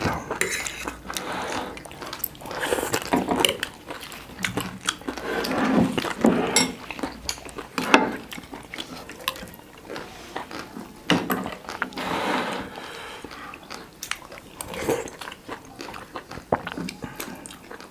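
Close-up eating sounds of thenthuk noodle soup: wet slurps of broth and chewing, with scattered small clicks.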